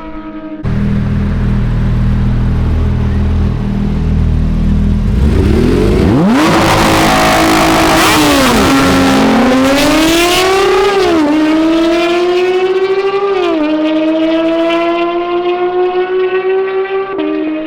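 Sports car engine accelerating hard through the gears, the note climbing and dropping sharply at each of three upshifts, then settling into a steady cruise. A loud low rumble comes in suddenly just after the start.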